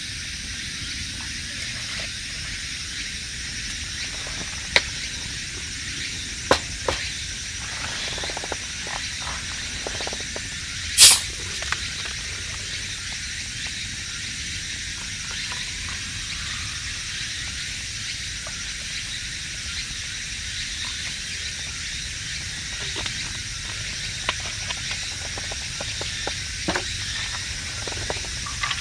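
Steady sizzling hiss of food frying in a pan, with scattered small crackles and one louder, sharp pop about eleven seconds in.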